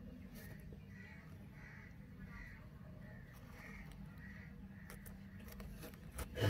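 Faint bird calls repeating about every half second over a low steady hum, with a sudden knock near the end.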